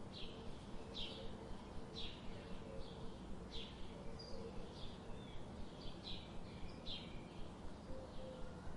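Birds chirping: short high chirps that repeat about once a second over a low steady hum.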